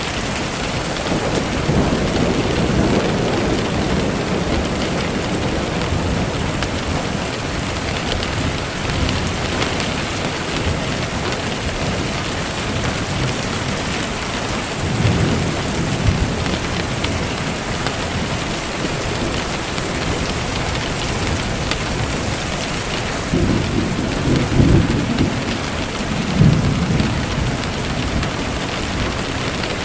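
Steady rain falling with a constant hiss, with low rolls of thunder swelling up several times: near the start, about halfway through, and twice near the end.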